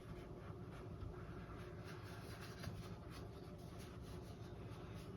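Faint, soft scratching of a dry mop brush worked in small circles over a painted canvas, a couple of short strokes a second over a low steady room hum.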